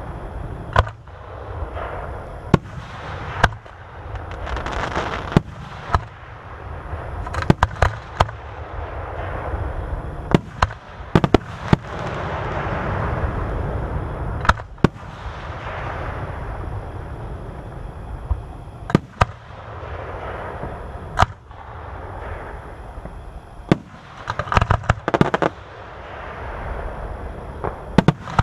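Aerial fireworks display: shells bursting with sharp booms every second or so over a continuous low rumble and crackle. Near the end comes a dense run of rapid bangs.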